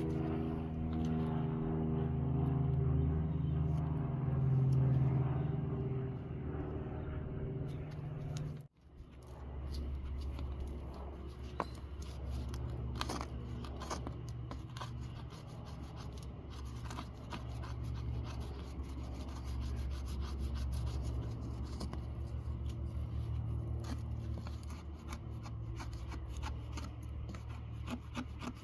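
Background music for about the first nine seconds. Then, after an abrupt cut, a knife blade works a material with steady, repeated rubbing and scraping strokes and scattered small clicks.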